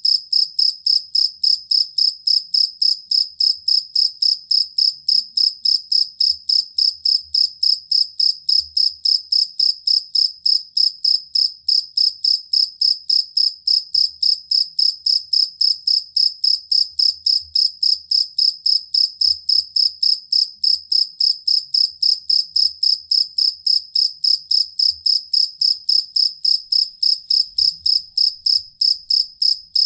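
Jangkrik kalung (collar field cricket) chirping in an even, unbroken train of short, high-pitched chirps, about three a second.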